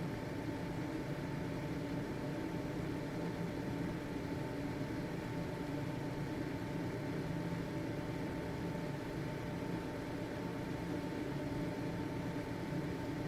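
Household ventilation fan running steadily: an even whirring hum with a faint steady tone from its motor.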